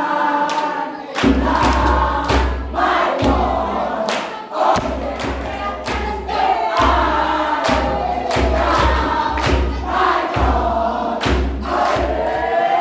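Gospel worship song: many voices singing together over music with a heavy bass beat that comes in about a second in, with regular percussive strikes.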